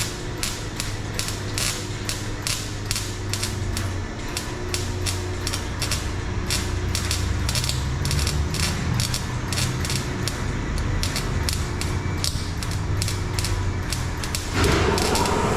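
Welder working on thin exhaust-pipe steel: a steady run of evenly spaced crackling pulses, about three a second, over a low hum. Near the end a louder steady running sound comes in.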